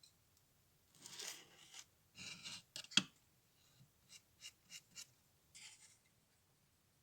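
Small hand-work sounds: two short scraping or snipping passes, a sharp click about three seconds in, then four lighter clicks about a third of a second apart and one more brief scrape.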